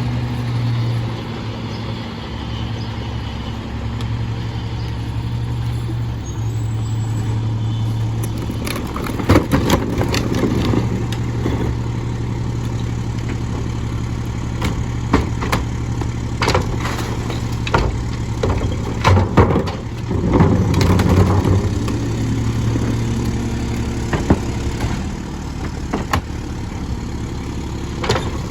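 Mack LE garbage truck's diesel engine running steadily, its speed stepping up and down, with sharp clanks and bangs and two bouts of clattering, typical of trash carts being emptied by the semi-automatic cart tipper.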